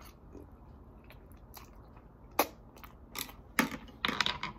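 Close-miked chewing and biting of food, with scattered sharp mouth clicks and crunches that bunch together near the end.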